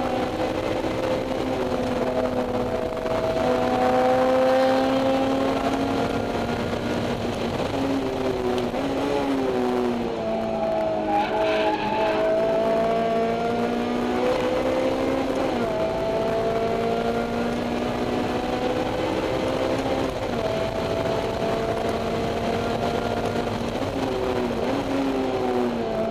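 Honda S2000's four-cylinder engine pulling hard through a Mugen header and EVS Tuning 70-SSP exhaust, heard from inside the cabin with the windows open. Its pitch climbs and then drops back several times as it shifts through the gears.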